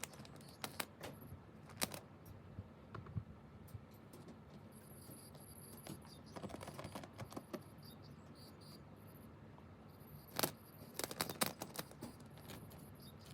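Scattered light clicks and rattles of small objects being handled, coming in clusters: a few near the start, a busier run about six seconds in, and the loudest group around ten to twelve seconds in. Under them is a faint steady background hiss.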